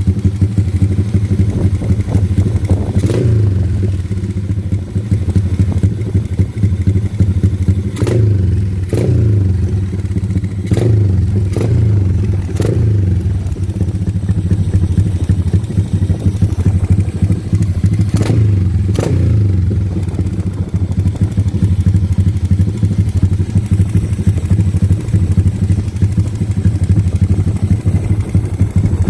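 Drag-bike motorcycle engine running through an open pipe with no muffler, idling loudly and steadily, with short throttle blips every few seconds in the first two-thirds.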